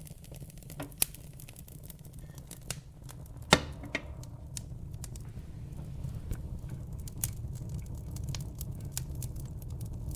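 Wood fire crackling in a fireplace: a steady low rumble of the flames under many sharp pops and snaps. There is a loud pop about three and a half seconds in, and the crackling grows denser toward the end.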